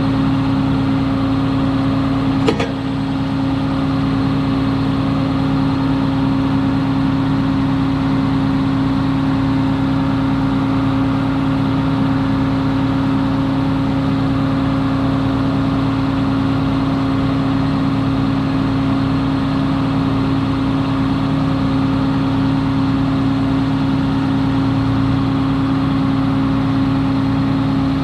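A large engine running steadily at a constant speed, with a fixed-pitch hum. A single sharp knock sounds about two and a half seconds in.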